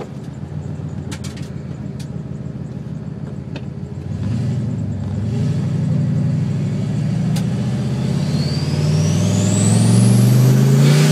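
Turbocharged Ford Mustang heard from inside the cabin, the engine running at low speed and then pulling harder from about four seconds in. Over the last few seconds the engine note climbs and a high turbo whistle rises steeply as the turbocharger spools up under acceleration.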